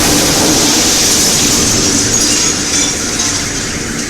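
Sonic boom of the Chelyabinsk meteor arriving on recorded footage: a sudden loud blast that carries on as a sustained, noisy boom, fading slightly toward the end.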